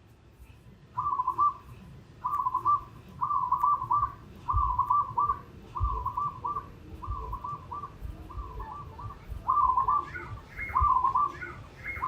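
Whistle-like warbling phrase of a few quick notes, repeated about once a second, with higher notes joining in near the end.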